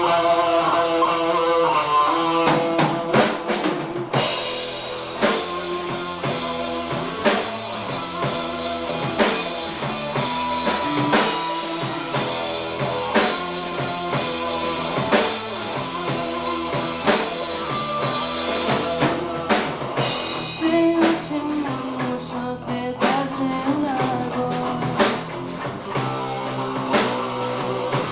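Live rock band playing a song on drum kit, guitar and bass. A quick run of drum hits comes about two and a half seconds in, and the cymbals and full band come in about four seconds in.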